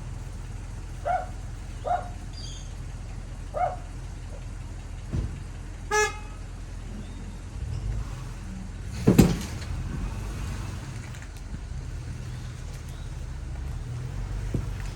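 Car engine idling with a steady low rumble, a short car horn toot about six seconds in, and a loud clunk a little after nine seconds, during a tow hook-up to pull a bogged car out.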